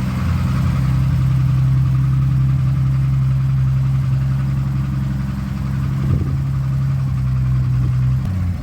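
BMW E30 engine held at steady revs during a burnout attempt, its note level and unchanging, then dropping just before the end.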